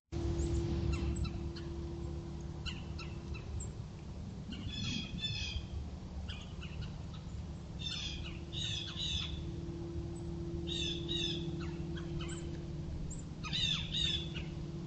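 Birds chirping in short bursts of quick, high, down-slurred notes, a burst every few seconds, over a steady low hum and rumble.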